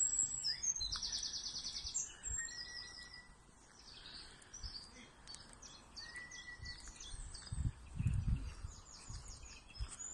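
Several songbirds singing and chirping, with fast trills of repeated notes and short calls, over a faint outdoor hiss. A brief low rumble on the microphone about eight seconds in.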